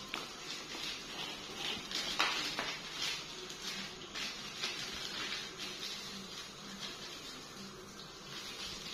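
Hands kneading and stirring a moist carp bait mixture in a container, giving an irregular run of crackling and rubbing noises.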